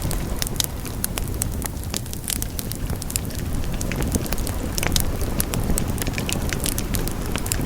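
Wood fire burning in a fireplace, crackling with many irregular sharp pops and snaps over a steady low rumble of flame.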